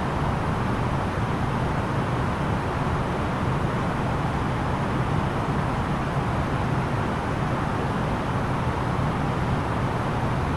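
Steady cabin roar inside an Airbus A330-900neo airliner in flight on descent: the even rush of airflow over the fuselage mixed with the low drone of its Rolls-Royce Trent 7000 engines, unchanging throughout.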